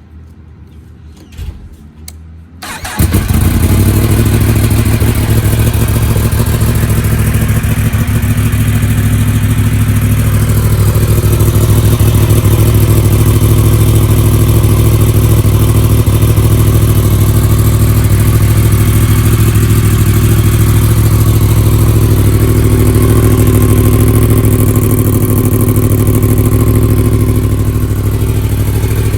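Yamaha R1 inline-four motorcycle engine catching about three seconds in and then running steadily through a newly fitted aftermarket exhaust with its baffle in.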